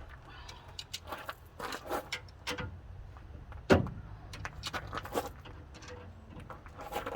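Metal clinks and clanks of tools and hitch hardware as the U-bolts on a steel hitch extension are checked for tightness: a scatter of short sharp knocks, with one louder clank about halfway through.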